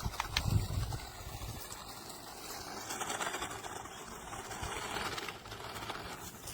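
Small battery-powered 1:18 RC monster truck driving on sand: its electric motor whirring and tyres churning, swelling for a couple of seconds in the middle, with a soft low thump about half a second in.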